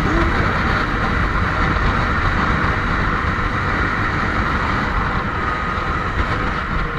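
Steady wind rush and road noise from a moving motorcycle, picked up by the rider's microphone.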